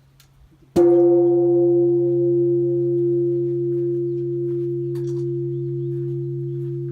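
A single strike on a bell, followed by a long pitched ring with overtones that fades slowly, over a steady low hum.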